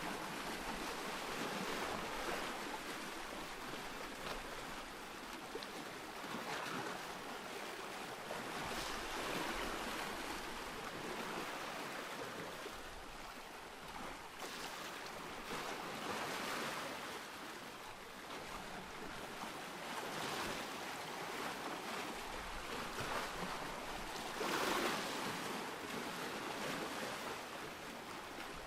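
Ocean surf: waves washing in and drawing back, swelling every few seconds, with the largest surge near the end.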